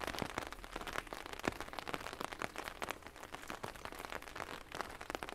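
Rain falling, with many separate drops striking close by in an irregular patter.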